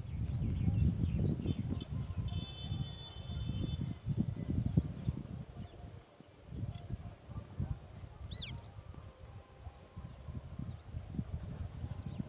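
Insects chirping outdoors in a steady run of repeated high chirps, with a short bird call about eight seconds in. Underneath, a loud uneven low rumble.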